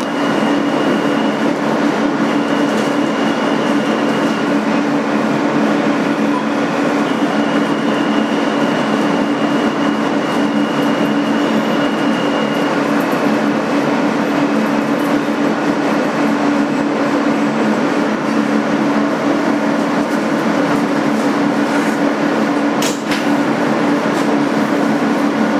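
Inside an R160B subway car: a steady rumble with a constant low hum and a faint high tone that comes and goes, and a single click near the end.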